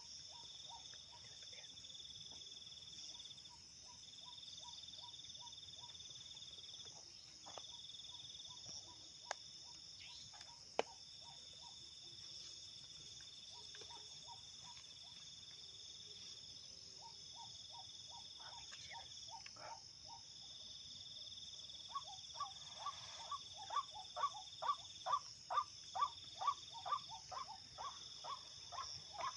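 Steady high chirring of night insects, with runs of a white-breasted waterhen's call. The call is a string of repeated notes at about three a second that grows loud over the last several seconds.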